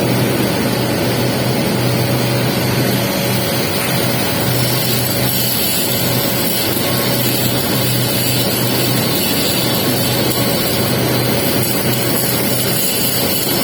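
Welding arc crackling and hissing steadily while a capping pass is laid on a pipe joint, over a low electrical hum that comes and goes.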